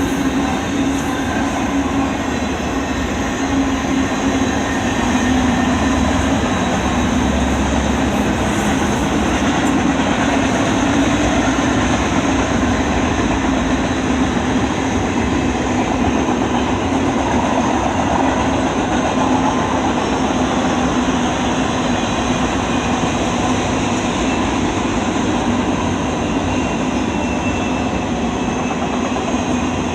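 CN intermodal freight train rolling past, a steady rumble of steel wheels on rail.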